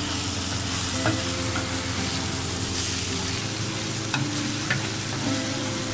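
Okra, onion and tomato sizzling in oil on a black iron tawa while a perforated metal skimmer stirs and scrapes through them, with a few light clicks of the spoon against the pan. The okra is nearly cooked.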